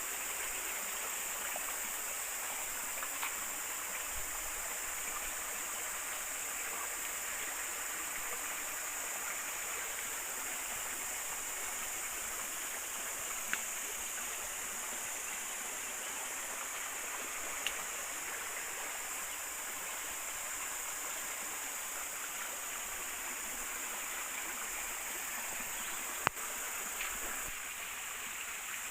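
River water running steadily over stones, an even rushing babble. Three brief sharp clicks stand out, the loudest near the end.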